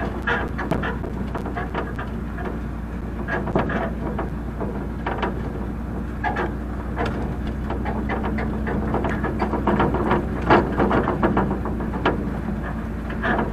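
Vehicle engine running with a steady low hum, with frequent clanks and rattles over it, loudest about ten seconds in.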